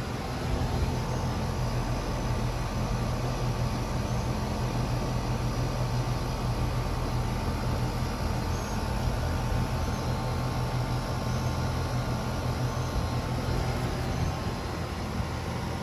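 Carrier CA16NA 3-ton air-conditioner condenser running steadily, with a low hum and the whoosh of its fan.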